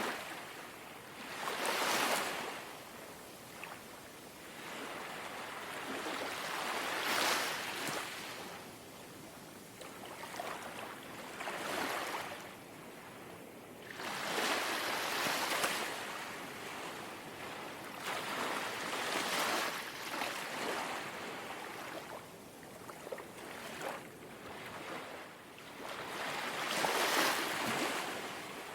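Small, gentle sea waves lapping on the shore, each wave coming in as a soft swell of washing water and ebbing away again, every few seconds.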